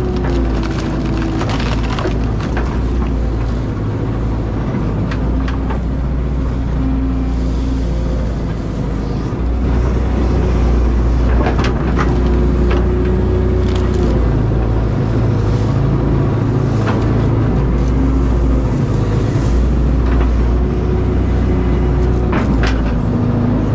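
Caterpillar excavator's diesel engine running under load as it digs, its note shifting and growing louder about ten seconds in, with scattered sharp cracks and knocks from the digging.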